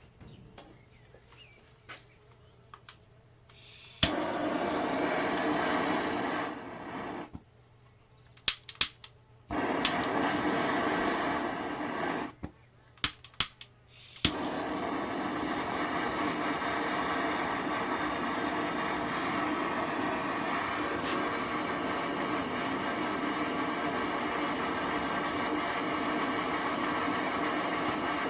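A motor running in two short runs, each starting with a click, then running on steadily from about halfway through, with quiet clicks and knocks before it.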